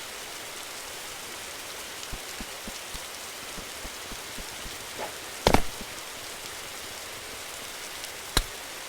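Steady even hiss with scattered faint ticks and two sharp clicks, about five and a half and eight and a half seconds in.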